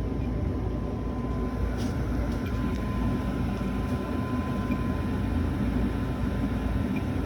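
Residential gas furnace running in heating mode: a steady low rumble of the blower and burners.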